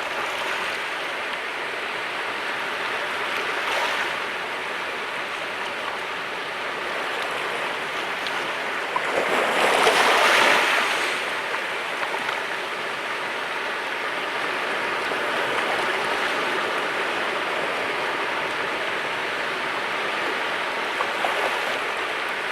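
Sea waves washing on a rocky shore, a steady rush of surf with one wave breaking louder about ten seconds in.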